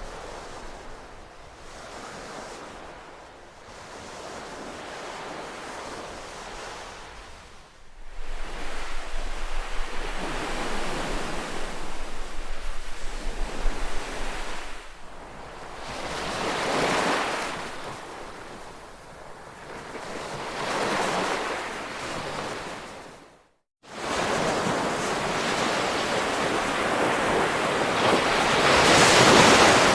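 Ocean waves breaking and washing on a shore as a continuous wash of surf that swells and ebbs, with louder surges about two thirds through and near the end. It jumps in level abruptly about a quarter of the way in and cuts out completely for a split second shortly before the last surge, a splice in the looped recording.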